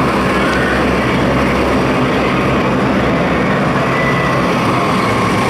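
A steady, loud engine drone with a low hum, unchanging throughout.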